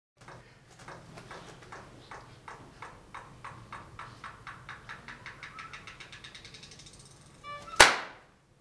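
A steady train of clap sounds that speeds up evenly from about three to about eight claps a second, over a low hum. It ends in a short pitched blip and then one much louder, sharp crash that rings away over about half a second.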